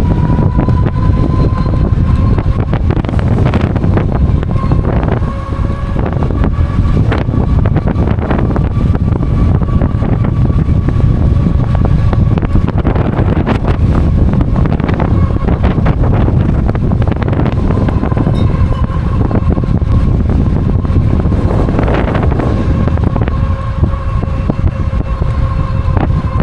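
Heavy wind buffeting the microphone while riding an XP 3.0 e-bike, with a steady high whine from the bike's hub motor that drifts slightly up and down in pitch with speed. Occasional short knocks.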